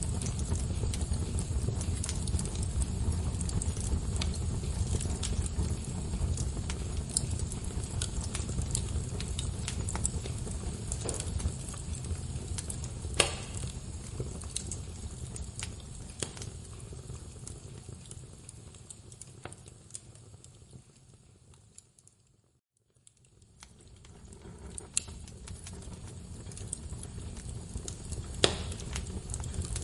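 Wood fire crackling over a low steady rumble, with scattered sharp pops, the loudest about 13 seconds in and near the end. About two-thirds of the way through the sound fades down almost to silence, then fades back up.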